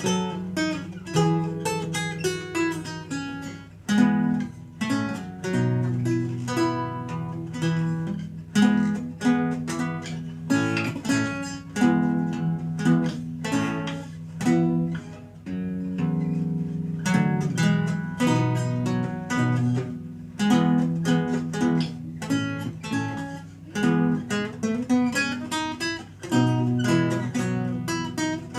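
Renaissance lute played solo: plucked notes in a steady flowing run, with chords and ringing bass notes beneath.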